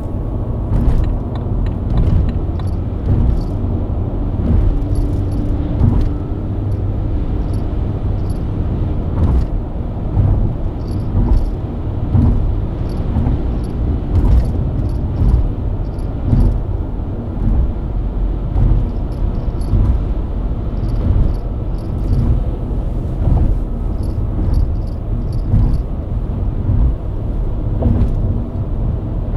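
BMW E90 323i's 2.5-litre inline-six engine running at a steady cruise, with road and tyre rumble, and scattered light high clicks now and then.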